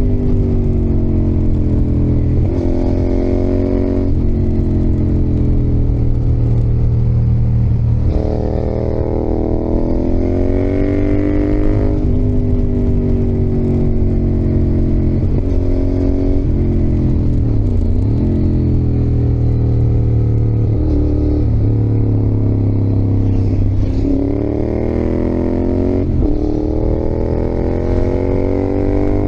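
Yamaha XSR700's CP2 689 cc parallel-twin engine pulling on the road. Its pitch climbs and falls again and again, with several abrupt breaks as gears change and the throttle is rolled off and on, and one deep drop and recovery about two-thirds of the way through.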